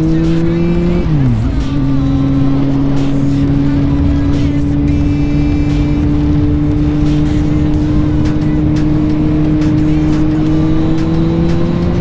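Kawasaki Z750 motorcycle's inline-four engine under way. About a second in the revs drop sharply with an upshift, then climb slowly and steadily as the bike pulls through the next gear.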